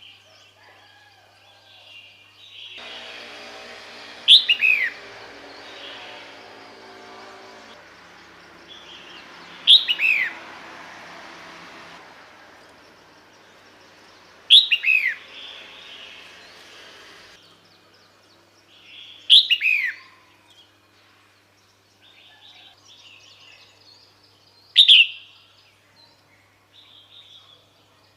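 Female red-whiskered bulbul calling: a short burst of two or three quick, falling chirps, repeated about every five seconds, five times. A low steady background noise with a faint low hum runs under the calls for the first half and then fades.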